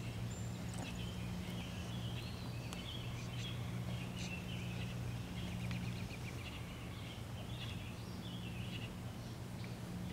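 Birds chirping and calling in short, scattered notes over a steady low hum.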